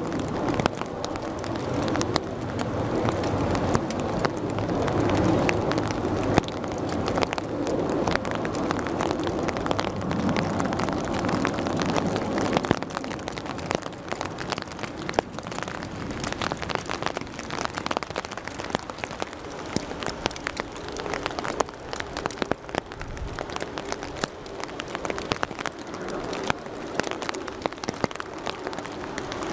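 Rain pattering steadily, with many close drop ticks, over the rumble of a landing jet airliner's engines. The engine rumble dies away about 13 seconds in, leaving mostly rain.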